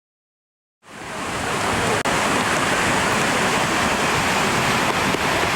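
Steady rushing water, fading in about a second in and then holding level, with a momentary break just after two seconds.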